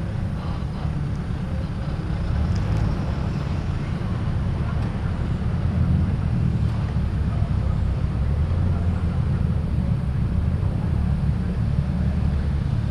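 Car engines running at low revs as cars roll out, a steady low rumble that swells and eases slightly.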